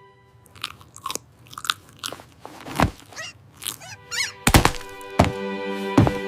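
A string of short crunching and clicking sound effects. A held chord of background music comes in about four and a half seconds in.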